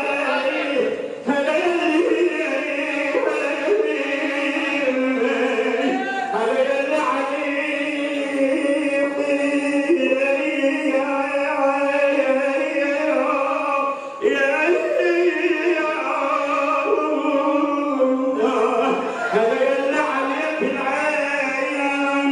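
A man's voice singing a religious lament (latmiya) in long, drawn-out melodic phrases, with a fuller backing of voices under him. The singing breaks briefly about a second in and again after about fourteen seconds.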